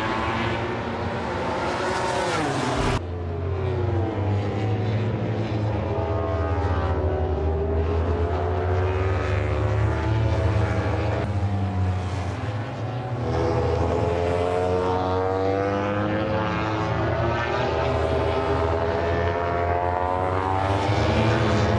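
MotoGP race motorcycle engines at high revs on track, pitch rising and falling as the bikes accelerate, shift and pass by, with a sudden cut in the sound about three seconds in.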